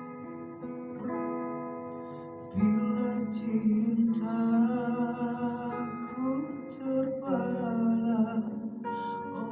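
Acoustic guitar playing sustained notes, joined about two and a half seconds in by a voice singing a slow, held melody with vibrato.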